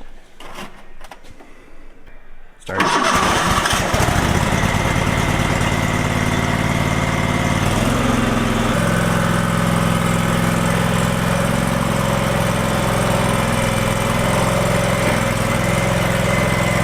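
Kohler Command V-twin engine on a Cub Cadet HDS3185 lawn tractor cranked on choke and starting after about a second of cranking, then running steadily. Its note shifts slightly about five seconds after it catches.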